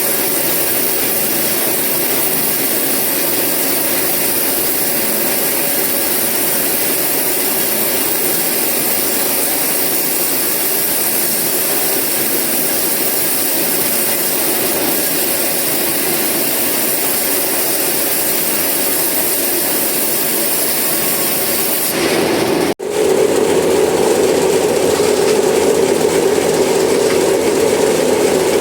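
Sawmill saw running and cutting eucalyptus logs, a loud steady mechanical noise. It breaks off for an instant near the end and resumes with a stronger steady hum.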